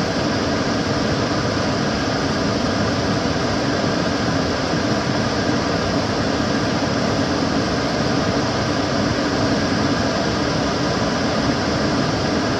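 Kitchen cooker hood extractor fan running steadily: an even rush of air with a low hum underneath.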